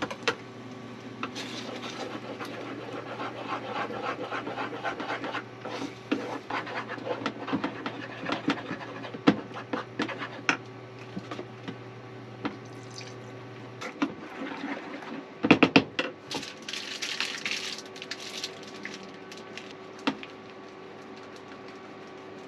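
A pan of thickening sauce being stirred in a small galley, with scattered utensil clinks and knocks and a cluster of louder knocks about two-thirds through. A steady low hum cuts out partway through.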